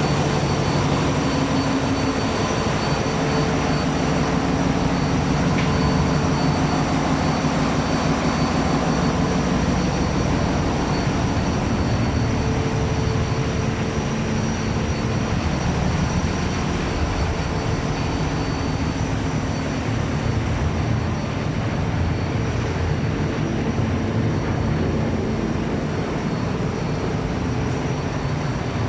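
A sailboat's inboard engine running steadily under way, heard from inside the engine room. It is a loud, even drone with a few thin, steady high-pitched whines above it.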